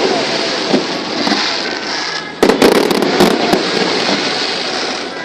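Fireworks going off: a dense crackling of bursting shells, with a sudden loud burst about two and a half seconds in followed by more crackling that slowly fades.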